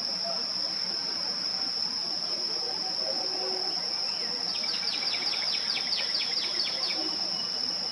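A steady, high-pitched insect drone, likely crickets, runs throughout. About halfway through, a small bird gives a rapid series of about a dozen quick descending chirps lasting a couple of seconds.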